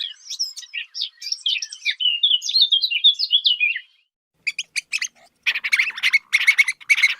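Birds chirping: a rapid run of short, high chirps for about four seconds, then, after a brief pause, a series of short, sharp chirps.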